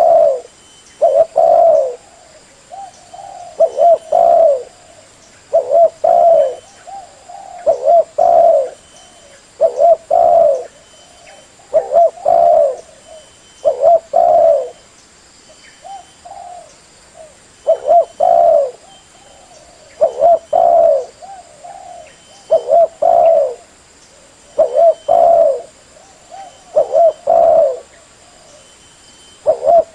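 Spotted dove (tekukur) cooing, repeating its short call phrase of two or three low coos about every two seconds.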